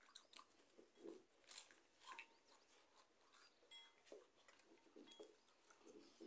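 Faint, irregular crunching and chewing of crackers, eaten mouth-first straight from glass bowls.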